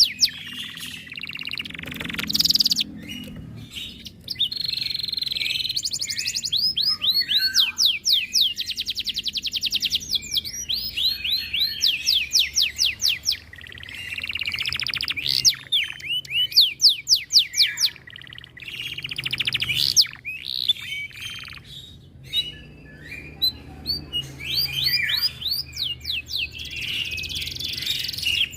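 Domestic canary singing a long song of fast trills and rapidly repeated high notes, broken by a few short pauses.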